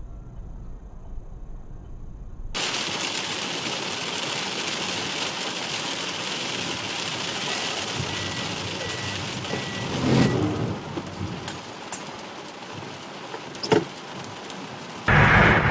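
Car interior road noise from dashcam recordings: a low rumble, then a steady hiss, with two sharp knocks partway through.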